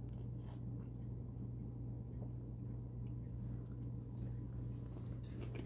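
A person chewing and biting into a soft tortilla wrap, with faint wet mouth clicks, over a steady low hum.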